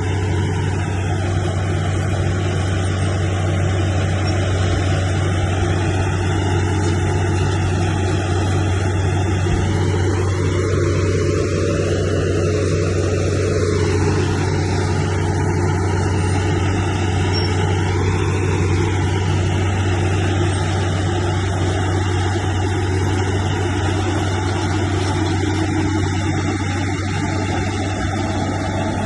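Bulldozer's diesel engine running steadily under load, a deep constant drone with fainter higher tones that rise and fall slowly around the middle.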